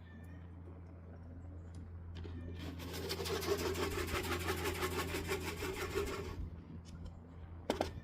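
Rapid wing flapping of a racing pigeon, a burst of fast wingbeats lasting about four seconds, then a sharp click near the end.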